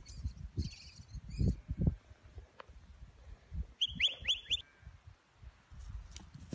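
A small bird calls a quick run of four falling chirps about four seconds in. Before that, low thumps from the person walking with the phone across the grass fill the first two seconds.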